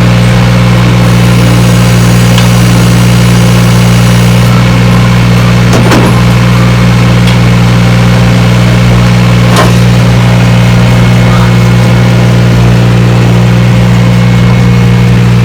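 An engine idling steadily and loudly, with two short sharp clicks about six and nine and a half seconds in.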